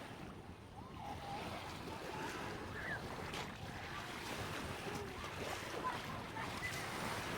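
Gentle sea waves washing onto the beach, with faint distant voices of people on the shore.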